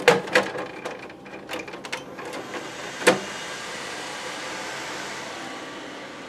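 Clicks and knocks of computer hardware being handled, with a loud knock about three seconds in; from about two seconds in, desktop PC cooling fans run with a steady whirring hiss.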